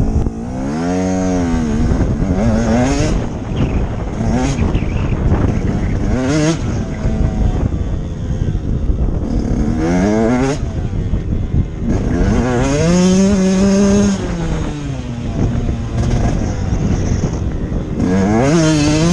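Motocross dirt bike engine revving up and dropping back again and again, about six times, as the bike accelerates out of one turn and shuts off for the next.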